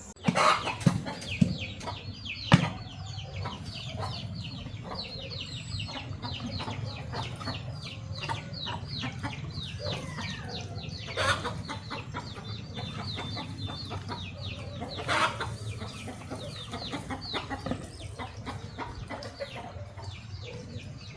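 Chickens clucking, with a dense run of short high chirps several times a second. A few sharp knocks come in the first few seconds, and two louder calls come about halfway through.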